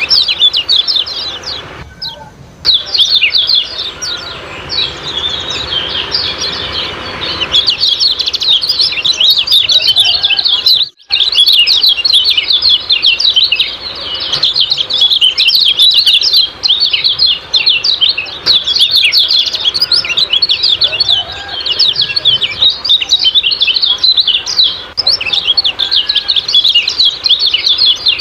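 Kecial kuning (common iora) giving its rapid 'ciak-ciak' chattering call: a fast, unbroken string of high chirps, loud throughout. There are two very short breaks, about two seconds in and near eleven seconds.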